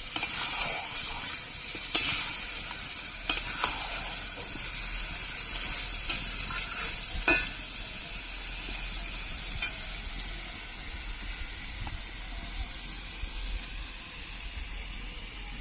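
Chicken pieces sizzling in oil and spice paste in a pan while being stirred and fried down (kosha), the stage of frying the meat in masala before water is added. Several sharp clinks of the stirring spoon against the pan, the loudest about seven seconds in.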